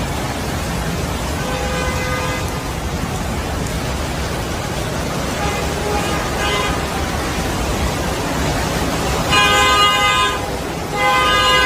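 Car horns honking four times over steady street noise. The first two are fainter, and the last two are longer and the loudest, about a second each.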